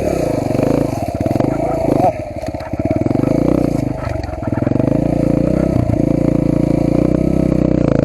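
Off-road motorcycle engine revving and labouring under load as the bike is worked over tree roots on a trail. The engine rises and falls several times.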